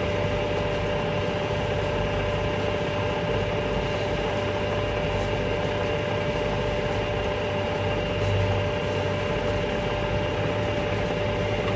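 Metal lathe running at a steady speed, its motor giving a steady whine over a constant mechanical hum.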